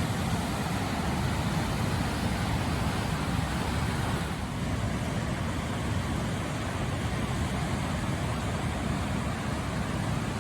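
Whitewater of Hermit Rapids on the Colorado River: a steady roar of rushing water.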